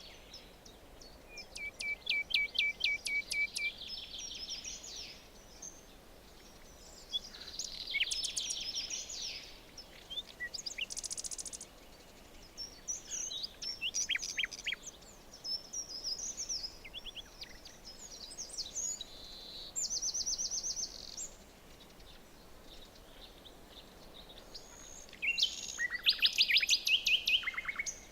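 Several forest songbirds singing and calling, with overlapping songs of quick whistled notes and rapid trills that come and go in spells, over a faint steady background hiss.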